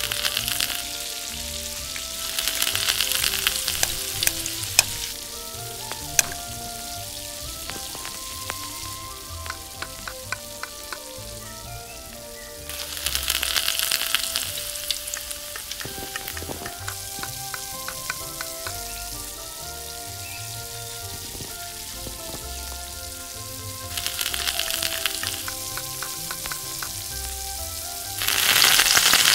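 Food frying in hot oil in a miniature pan, a steady sizzle that swells louder several times and is loudest near the end, with occasional light clicks.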